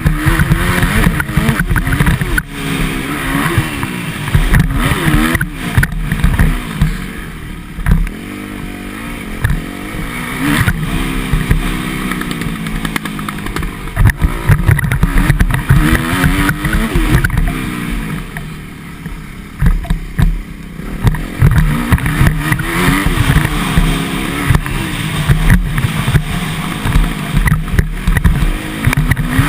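Motocross bike engine revving up and down again and again as it is ridden round a dirt track, easing off briefly twice, with frequent knocks and wind noise on the microphone.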